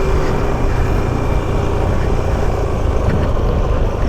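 Yamaha R15 V4 motorcycle ridden at steady speed, its single-cylinder engine running evenly under a heavy rush of wind on the camera microphone.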